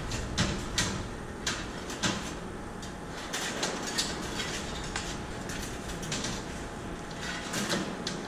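Irregular knocks and clatter of PET plastic being handled and loaded at a mini baler, over a steady background noise.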